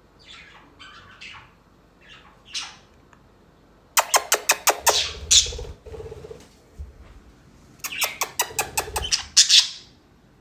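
Pet budgerigar calling and chattering: short soft calls at first, then two loud runs of quick, sharp clicks, one about four seconds in and one around eight seconds.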